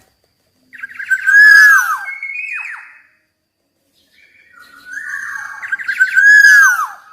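Black-naped oriole singing two loud fluting phrases, a second or so apart. Each phrase opens with a quick run of clipped notes and ends in clear whistled notes that slide down in pitch.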